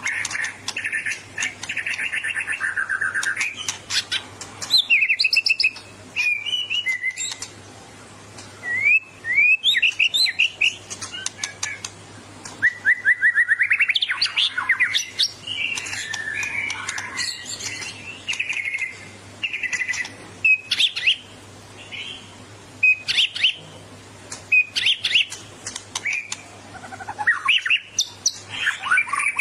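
White-rumped shama (murai batu) singing a varied, loud song: fast trills of rapid repeated notes, whistled phrases and sharp chattering calls in bursts with short pauses. This is the aggressive, fired-up song that keepers take as a bird ready to fight a rival. A faint steady low hum runs underneath.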